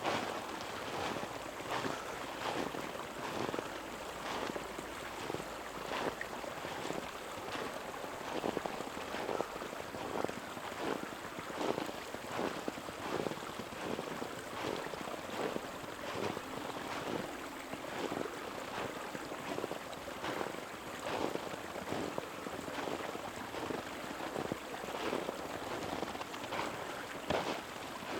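Footsteps of someone walking steadily on a trail, about two steps a second, over the steady rush of a nearby creek.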